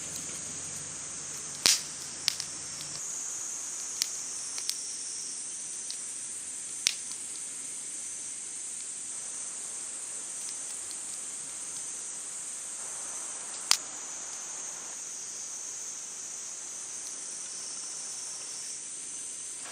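A steady chorus of summer insects trilling high and continuously, broken a handful of times by sharp pops from a crackling wood campfire.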